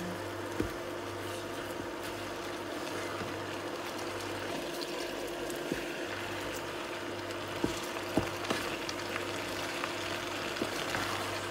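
Stir-fried beef and vegetables sizzling in a frying pan as a wooden spatula tosses them, with a few sharp knocks of the spatula against the pan, over a steady low hum.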